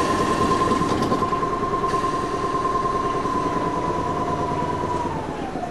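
London Underground A stock electric train arriving at a platform: a steady high whine over wheel-on-rail rumble. The whine begins to fall in pitch near the end as the train slows.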